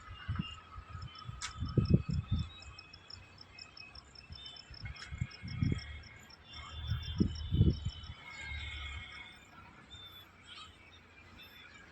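Trackside ambience between trains: a rapid series of high chirps, about four or five a second, with other scattered high calls. Irregular low buffeting thumps come and go, loudest about two seconds in and again around seven to eight seconds.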